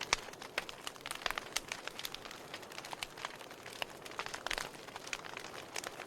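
Wood fire crackling, with many irregular sharp pops and snaps over a low steady hiss.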